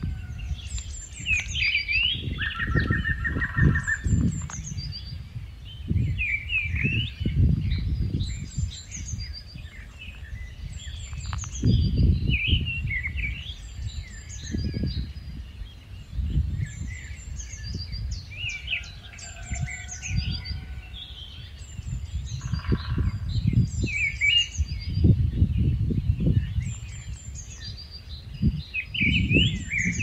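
Birds singing short, high chirping phrases that repeat every couple of seconds, over gusts of low wind rumble on the microphone.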